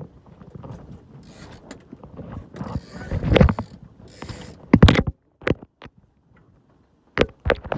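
Irregular clunks, rattles and scraping from a small sailboat's gear and hull, as lines run through blocks and fittings knock. The loudest bursts come about three seconds in and about five seconds in, and the sound goes nearly quiet for a moment before another clatter near the end.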